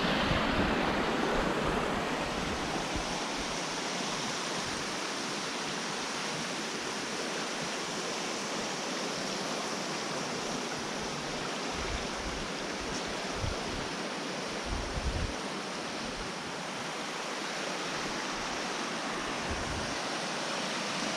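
Creek water rushing steadily, running high after rain. A few brief low thumps come around the middle.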